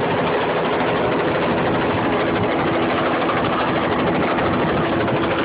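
Helicopter hovering low overhead, its rotor and engine running with a steady, even drone.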